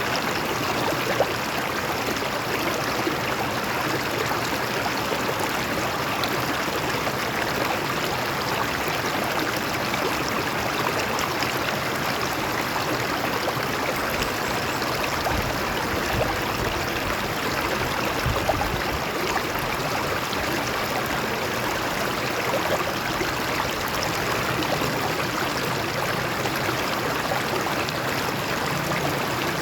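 A stream of water flowing and splashing over rocks, a steady rushing with small splashes and gurgles.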